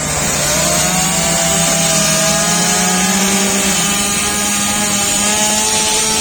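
Chainsaw running at full throttle, cutting a fallen tree, its pitch wavering slightly under load.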